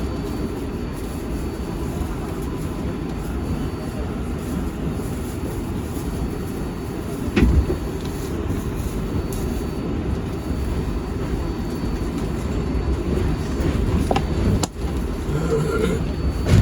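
R188 subway car of the 7 train running between stations, heard from inside: a steady low rumble of wheels on rail with a faint high whine. There is a louder thump about seven seconds in and a sharp click near the end.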